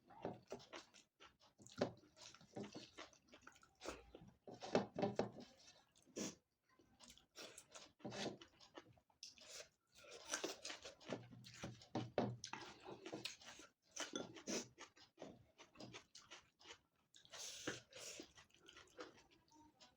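Close-miked chewing of food, with irregular crunches and clicks of the mouth.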